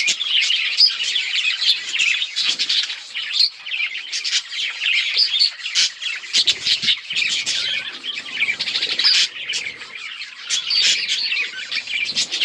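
Many budgerigars chirping at once, a dense, continuous mass of overlapping high calls.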